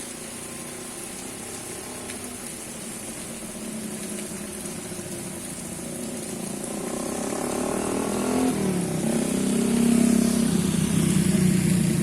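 Steady rain falling while a motor vehicle's engine comes closer, growing steadily louder over the second half, its pitch shifting slightly around two-thirds of the way in.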